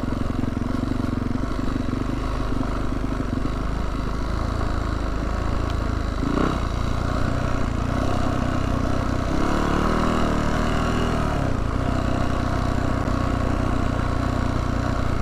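Yamaha YZ450F dirt bike's single-cylinder four-stroke engine running while ridden, rising briefly in pitch about ten seconds in and falling back.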